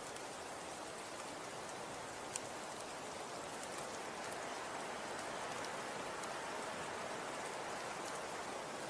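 Falling snow hitting surfaces: a steady soft hiss with scattered faint ticks, and one sharper tick about two and a half seconds in.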